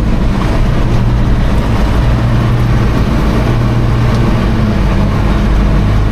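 Heavy diesel engine running steadily, a loud low drone with no change in speed.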